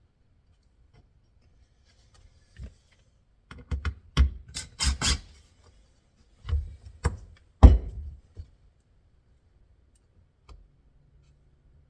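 Wooden boards being handled on a bench: two bursts of knocks, clunks and scraping, the sharpest knock about three-quarters of the way in.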